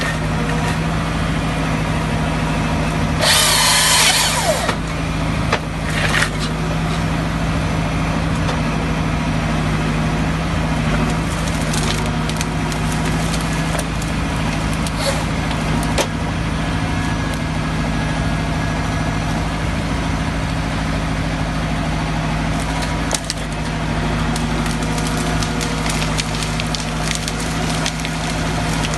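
Chainsaw running steadily under load, cutting through timber, with a brief louder burst of noise about three seconds in.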